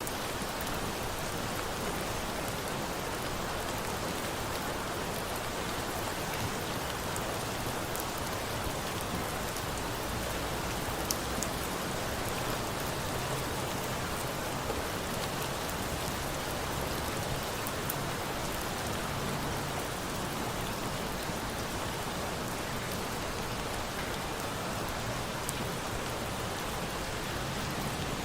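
Steady rain mixed with a crackling campfire, with a few sharp pops now and then.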